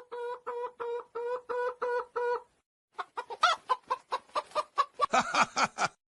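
Chicken clucking: a drawn-out call breaks into a steady run of clucks. After a short pause comes a faster, louder run of clucks that cuts off near the end.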